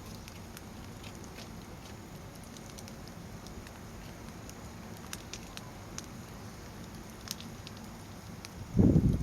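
Crib-stacked firewood burning in a fire pit: a steady low rush of flame with scattered sharp crackles and pops. Near the end a loud low rumble of wind buffets the microphone.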